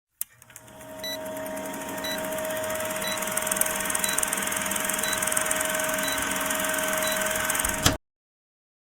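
Steady electronic hiss with a constant hum and a short high beep about once a second, swelling in over the first second and cutting off abruptly near the end.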